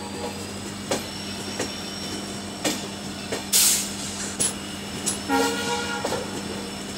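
Passenger train running along the track, heard from an open coach door: a steady rumble with sharp wheel clacks over rail joints about once a second. A short horn toot comes about five seconds in.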